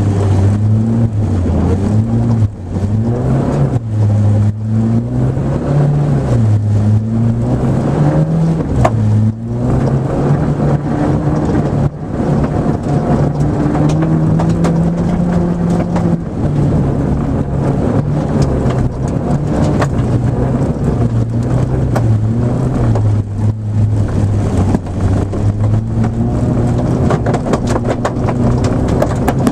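Nissan Micra rally car's engine working hard. Its note rises and falls again and again as it revs up and drops back, and holds steadier and lower for a while midway.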